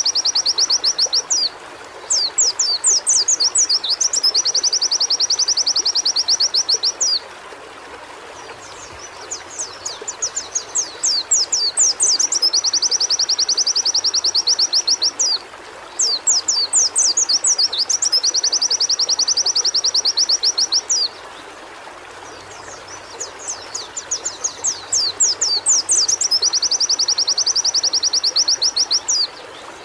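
White-eye (pleci) singing in long bouts: a run of quick, high down-slurred notes leading into a fast, dense trill, each bout lasting several seconds, with short pauses between. A steady hiss lies underneath.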